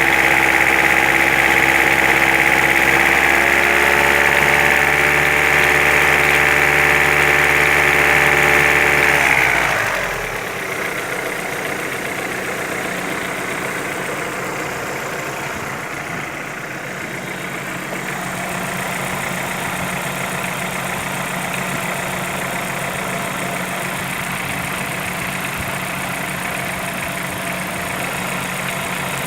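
Engine running steadily at raised revs. About ten seconds in its pitch falls away and it drops to a quieter, lower, steady idle.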